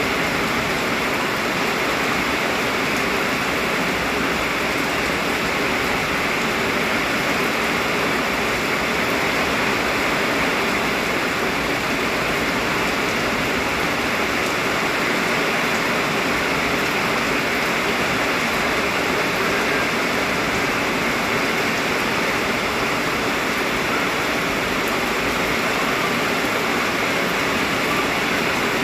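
Heavy rain pouring down in a steady dense hiss, with water running and splashing.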